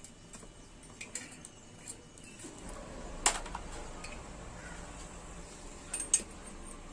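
A few sharp metallic clicks and clinks of tools or small metal parts being handled. The loudest comes a little past three seconds in and another near the end.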